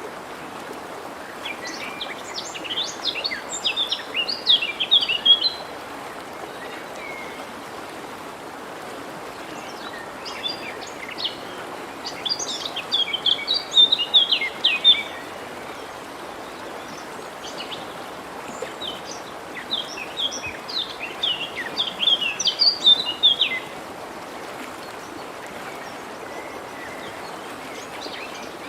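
A songbird sings three long phrases of rapid, high chirping notes, each lasting about four seconds, over the steady rush of a forest stream.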